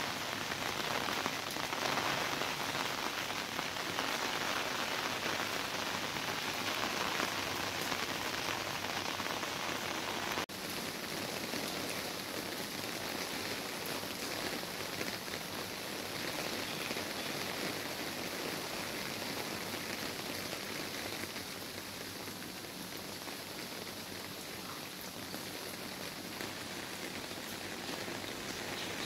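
Heavy rain falling steadily on a wet brick-paved and concrete courtyard, with a brief break about ten seconds in.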